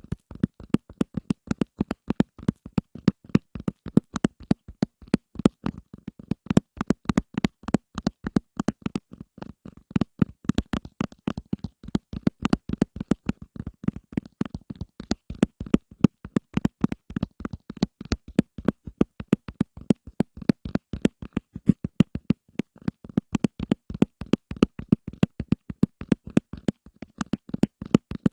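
Rapid ASMR fingertip tapping, several sharp taps a second in an uneven rhythm, each tap with a dull low body.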